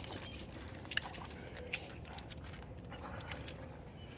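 Dogs moving about, with scattered irregular clicks and crunches.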